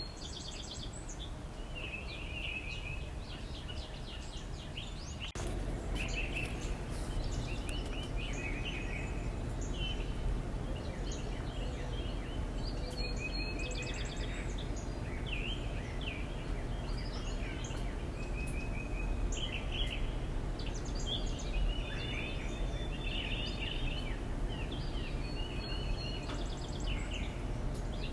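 Small songbirds chirping and trilling in short repeated calls, over a steady low rumble that gets louder about five seconds in.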